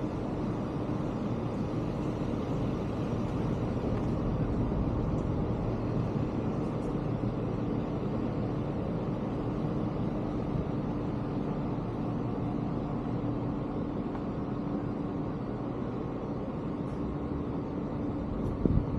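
Steady running noise of a vehicle, with a constant low hum and no change in pitch.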